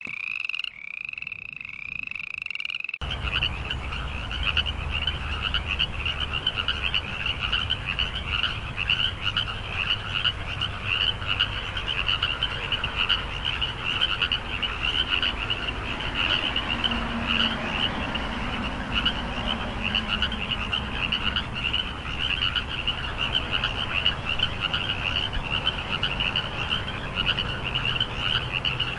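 Frogs croaking in a dense, continuous chorus of fast, overlapping calls over a low background rumble. For about the first three seconds a cleaner series of short, repeated rising-and-falling calls is heard before the full chorus comes in.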